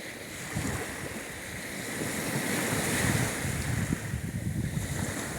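Black Sea surf washing onto the shore, a wave swelling up about halfway through, with wind rumbling on the microphone.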